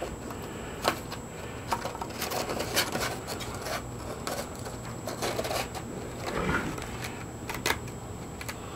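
Scattered light clicks and knocks of a power sander and tools being handled and readied, not yet running.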